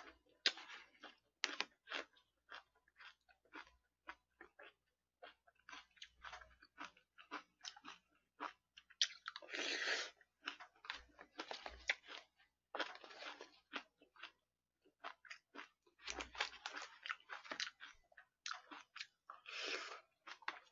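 Close-miked mukbang eating: a steady run of wet chewing clicks and crunches, broken by a few longer noisy stretches, with a metal spoon scooping in plastic food trays.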